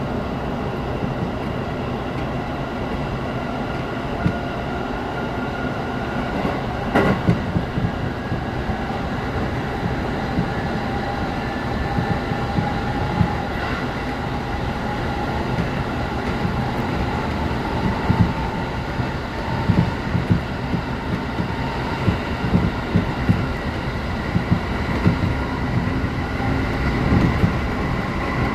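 Electric commuter train heard from inside the carriage while running: a steady motor whine over the rumble of wheels on the rails, with irregular clacks from the track joints, more of them in the second half.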